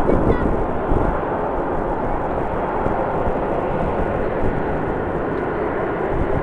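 Jet airliner engine noise, a steady rumble, with strong wind buffeting the microphone.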